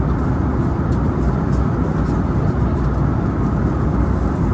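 Steady in-flight cabin noise of an Airbus A321neo: an even, low rumble of engines and airflow.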